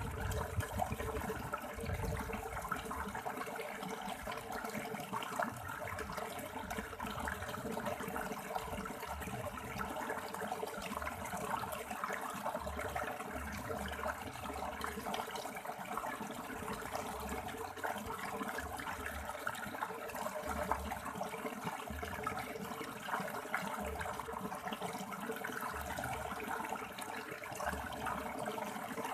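River water rushing and splashing over rocks in a steady, continuous flow, with occasional low rumbles.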